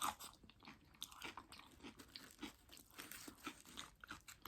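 Close-miked chewing of loaded nachos made with Doritos tortilla chips: crisp, irregular crunches with moist chewing between them.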